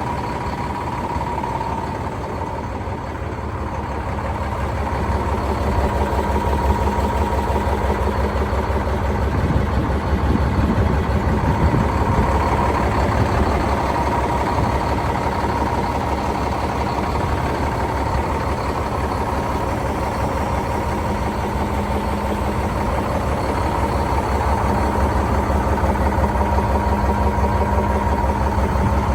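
2007 International 7600 truck's diesel engine idling steadily, with a steady whine above the engine note.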